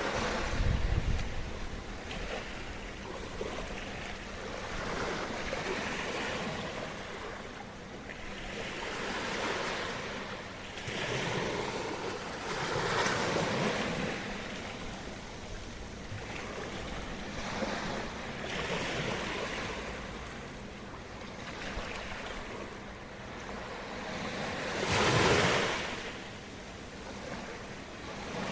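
Small waves breaking and washing onto the shore of a sheltered bay. Each wash swells and falls away every few seconds, and one larger wave breaks near the end. Wind gusts buffet the microphone just after the start.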